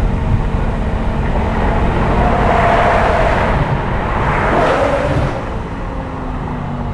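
BMW M6's naturally aspirated V10 engine pulling hard under acceleration, with road and wind noise. It grows louder for a few seconds in the middle with some rising engine pitch, then eases off near the end.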